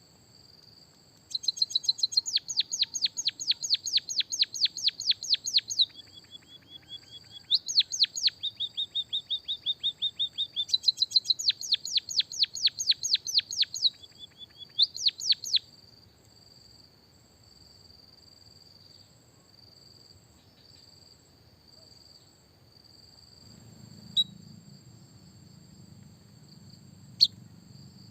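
Small songbird giving rapid runs of high, downward-sweeping chirps, about five a second, in several bursts through the first half, then falling silent. Under it runs a steady high insect-like trill, which continues alone to the end with two sharp clicks near the end.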